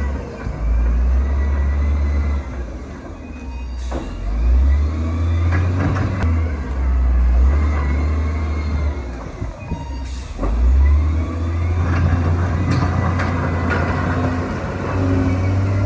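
Heavy diesel engine of earthmoving machinery working under changing load: a deep rumble that swells and eases four or five times, with a few sharp knocks over it.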